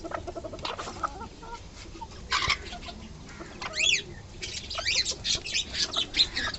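Bantam chickens clucking softly. High, quick chirps and short whistling calls from smaller birds mix in through the second half.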